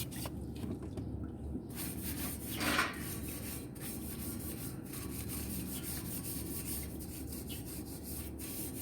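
Stainless steel barbecue grill being scrubbed by hand, fast back-and-forth scouring strokes that start about two seconds in and keep going.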